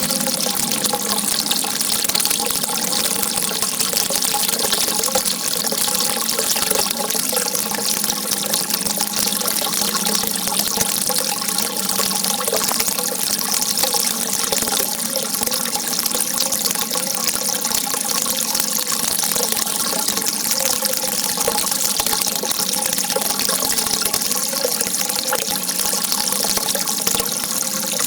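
A steady, unbroken rush of water, a continuous jet of water with a hiss that is strongest in the high range.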